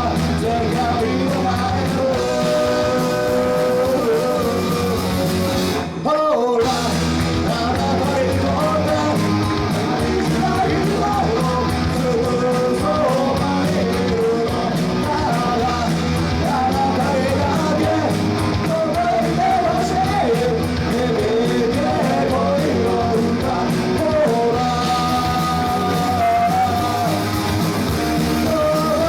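A band playing a song live, with a singer's voice over the instruments. About six seconds in, the whole band stops for a moment, then comes straight back in.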